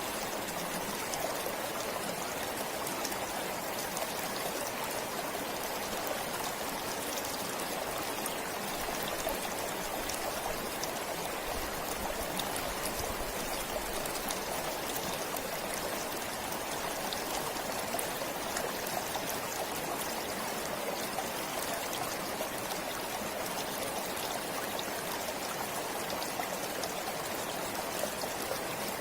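Forest stream flowing steadily, a continuous rush of water with small trickling splashes.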